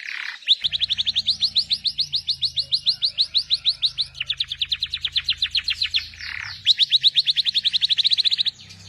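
Domestic canary singing rapid rolling trills of sharp down-sweeping notes, about ten a second. Two slurred notes break the trills, one at the start and one about six seconds in, and the song stops shortly before the end.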